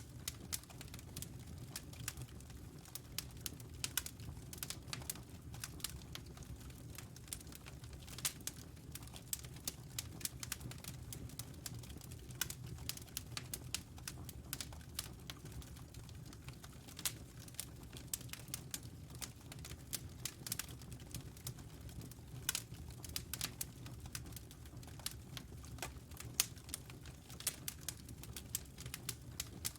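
Wood fire crackling in a fireplace: irregular sharp pops and snaps, some louder than others, over a steady low rumble of the burning flames.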